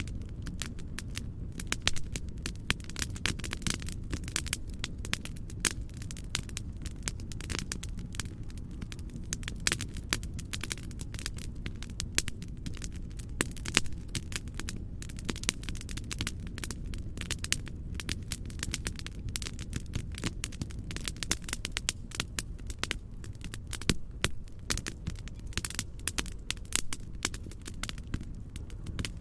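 Wood fire crackling in a fireplace, with many irregular sharp pops and snaps over a steady low rumble of noise.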